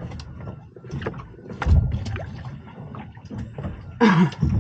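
Water slapping against the hull of a small anchored boat, with irregular knocks and thumps from the boat, one louder thump nearly two seconds in. A short loud sound with a falling pitch comes near the end.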